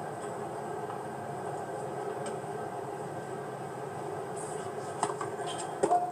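Tennis broadcast ambience: a steady hum of the stadium crowd, then near the end two sharp knocks about a second apart, the second the loudest, typical of racket strikes on the ball during a rally.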